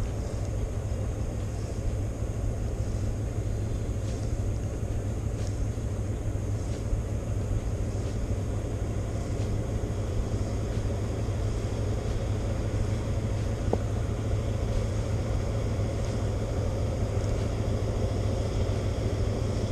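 River oil tanker's diesel engine running with a steady low drone as the vessel passes on the river.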